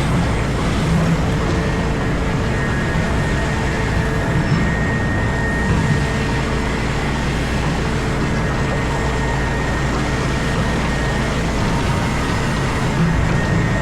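Komatsu PC4000 hydraulic mining excavator running steadily, its diesel engine and hydraulics a constant drone with faint whining tones above it, heard from inside the operator's cab.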